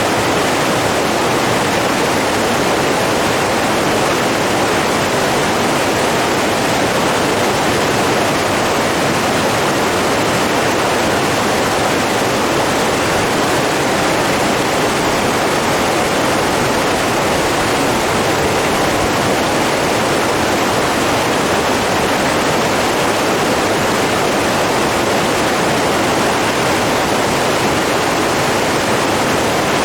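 Flowing water rushing steadily and evenly, a constant full hiss with no breaks.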